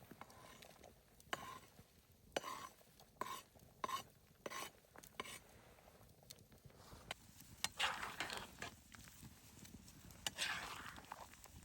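Metal utensil clinking and scraping against a cooking pot: a run of about seven evenly spaced taps, each with a short ring, then two longer scrapes near the end.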